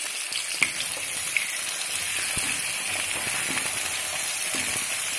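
Carrot sticks and onions frying in hot mustard oil in a pan: a steady sizzle with a few sharp pops.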